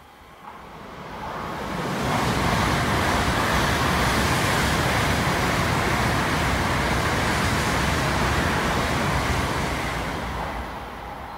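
Tokaido Shinkansen train running past a station platform at speed: a loud rushing noise that builds over about two seconds, holds steady, then fades near the end.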